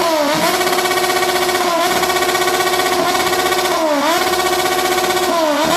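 Car engine through a loud exhaust, held at high revs with a steady high-pitched drone. The revs dip briefly and climb straight back up every couple of seconds.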